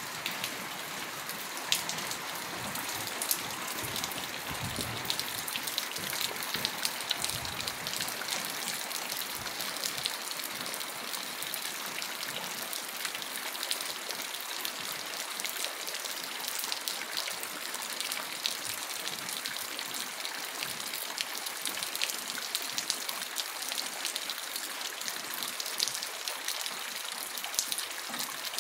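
Steady rain falling, with many sharp individual drops ticking close by.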